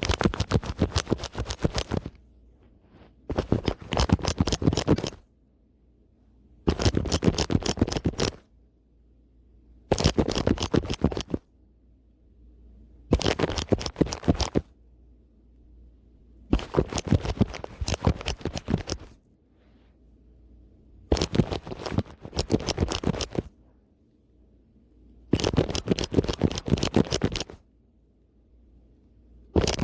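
A brush scrubbed fast and hard across the camera and its microphone, giving rapid, rough bristle strokes. The strokes come in bursts of about two seconds, with quiet pauses of a second or two between them, about eight times.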